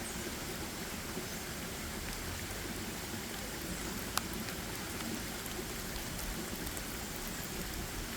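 Steady forest ambience: an even outdoor hiss, with a single sharp click about four seconds in.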